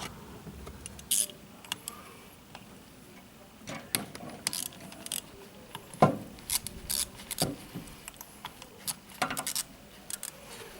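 Irregular metallic clinks, knocks and rattles of tools and parts being handled while a car's starter motor is worked loose and lifted out, the loudest knock about six seconds in.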